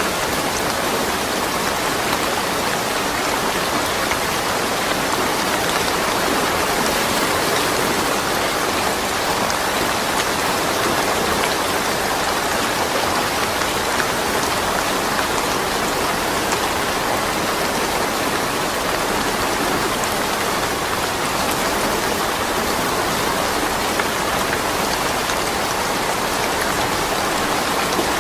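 Steady rain falling, an even dense hiss of drops on surfaces, with no thunder.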